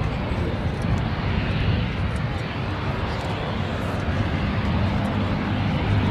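Hawker Hurricane fighters' Rolls-Royce Merlin V12 engines running with a steady drone.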